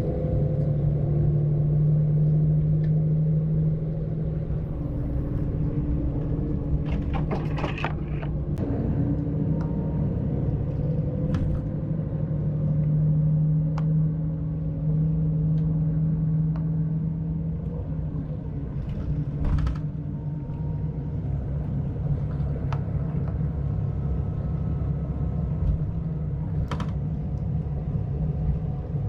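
A bus on the move: a steady low engine and road rumble with a constant hum, and a few light clicks and rattles.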